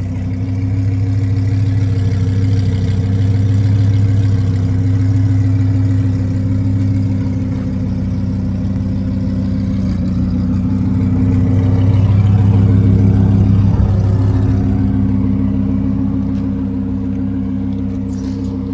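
A car engine running steadily with a low hum, swelling louder twice.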